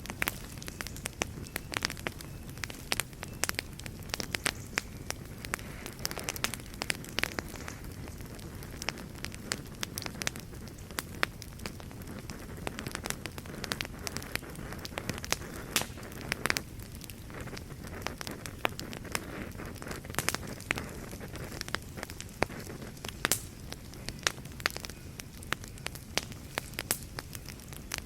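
Wood fire burning in a fireplace with a steady low rumble and frequent irregular crackles and pops.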